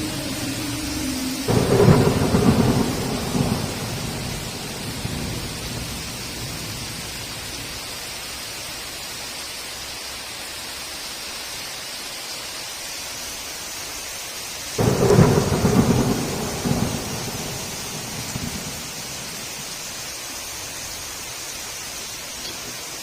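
Heavy rain hissing steadily, with two claps of thunder, one about a second and a half in and another around fifteen seconds in, each rumbling off over a few seconds.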